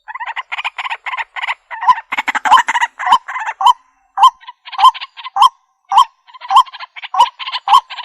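Waterhen (jal murgi) calling: rapid runs of short, harsh notes repeated several times a second, with brief pauses about four seconds in and about six seconds in.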